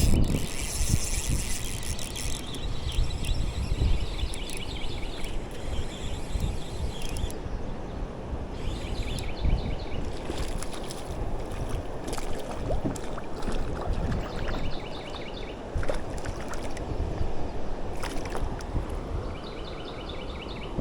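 Wind buffeting the microphone over the sound of moving water on a creek. A short, high chirping trill repeats about five times.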